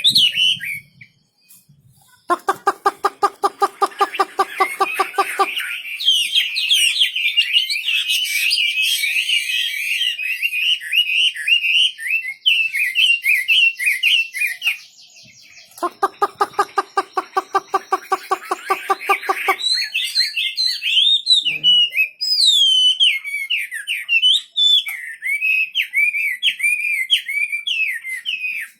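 Wambi (Chinese hwamei) songbird singing a loud, rapidly varied warbling song of high whistled notes. Twice, for about three seconds each, a lower, fast rattling call sounds alongside it.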